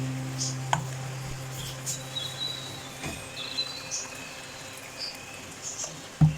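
Faint birds chirping, with short high whistles, over a low steady hum that fades out about halfway through. A single click comes under a second in, and a thump comes just before the end.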